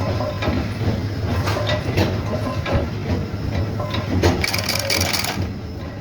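Factory machinery running: a steady low hum with irregular clattering clicks and knocks.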